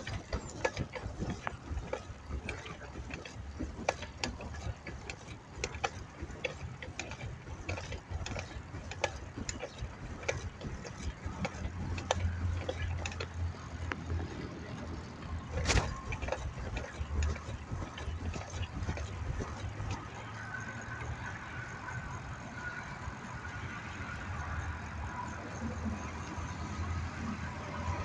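Bicycle on the move: irregular clicks and rattles from the bike over a steady low rumble, with one sharp knock about halfway through.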